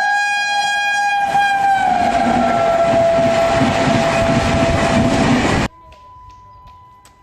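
Train horn sounding one long blast as a train passes at speed, its pitch dropping as it goes by, over the loud rumble and clatter of the passing train. The sound cuts off suddenly a little over five seconds in, leaving only a faint steady tone and light ticks.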